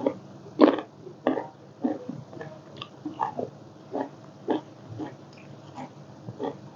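A person chewing food noisily with wet mouth smacks, a string of short smacking sounds about one or two a second, the loudest about half a second in.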